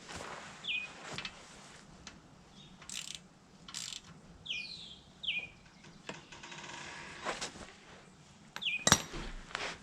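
A 3/8-inch ratchet with a 15 mm socket tightening an oil drain plug: scattered metal clicks, then a short run of rapid ratchet clicking about six seconds in.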